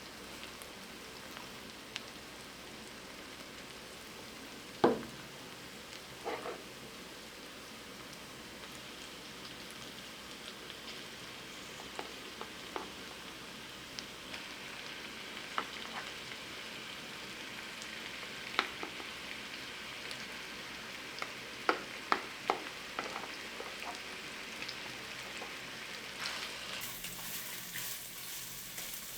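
Food frying in oil in a pan, a steady sizzle with a spatula knocking and scraping against the pan now and then; the sizzle grows brighter near the end.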